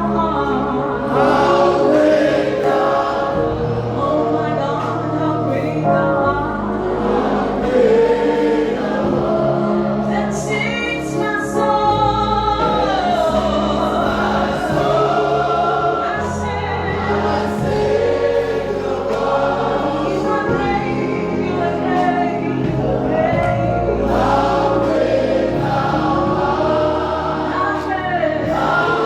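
Choir singing a gospel worship song with sustained instrumental backing.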